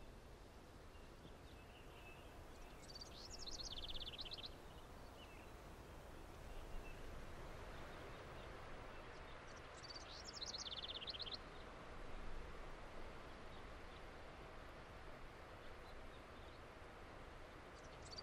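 A songbird singing a short song: a few high notes falling in pitch, then a quick trill of about half a dozen strokes. The song comes twice about seven seconds apart and starts a third time at the very end, over a faint steady outdoor hiss.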